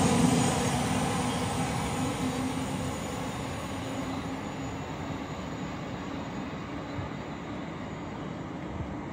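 Elizabeth line Class 345 electric train moving away along the track, its rumble fading over the first three seconds and then holding at a low, steady level.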